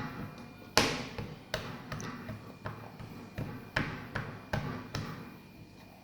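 A run of sharp knocks or taps, about eight in six seconds at an uneven beat, each with a short ringing tail.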